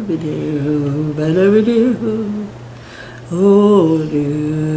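A woman humming a tune in long held notes that slide up and down, pausing briefly about halfway through.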